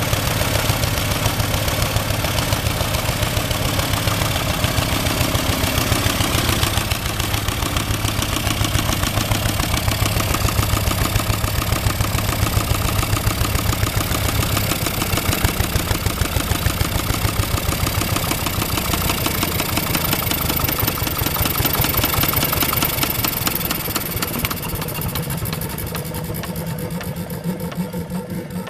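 Lister Petter diesel engine driving a compressor pump, running with a steady, fast firing beat. Near the end it gets quieter and the beats spread out as it slows down.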